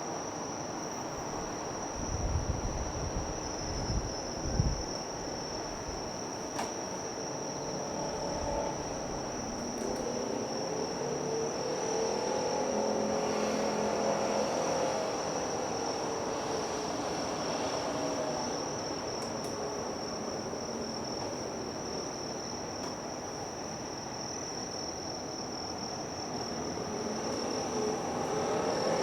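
A steady high-pitched insect trill over outdoor harbour noise. Low wind thumps hit the microphone a few seconds in, and an engine hum swells and fades in the middle.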